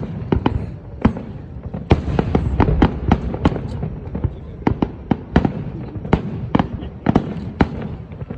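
Aerial fireworks bursting in a rapid, irregular string of sharp bangs, several a second, over a continuous low rumble of echoing booms.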